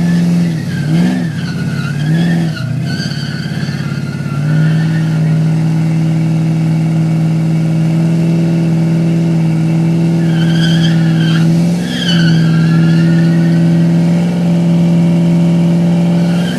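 1968 GMC's supercharged 454 big-block V8 held at high revs through a burnout, tyres spinning and squealing. The revs dip briefly a few times near the start and again about twelve seconds in.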